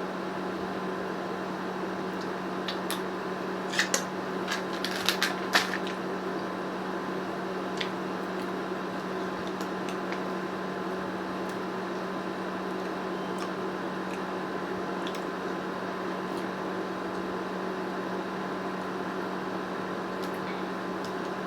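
A steady mechanical hum with a low tone, like a room fan or appliance motor running. A few short sharp clicks come about four to six seconds in, and fainter ones later.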